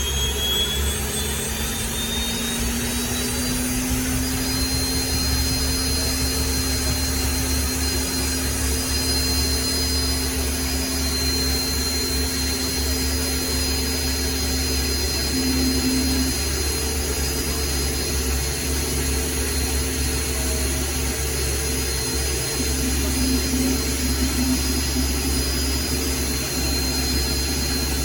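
Westland Wasp helicopter's Nimbus turboshaft engine running after start-up. Its turbine whine rises over the first few seconds, then holds a steady high pitch over a steady low drone.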